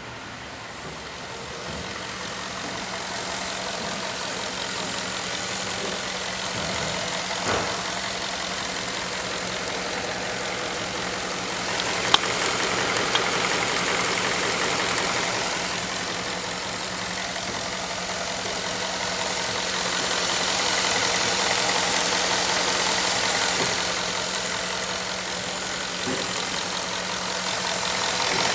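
Ford 5.0 Coyote V8 engine from a 2011 F-150 running at a steady idle, an even mechanical hum. One sharp click comes about twelve seconds in.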